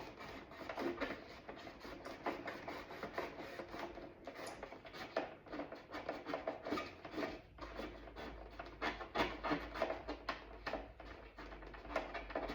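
A door panel being scrubbed by hand to get the remaining dirt out: quick, irregular rubbing strokes over its surface.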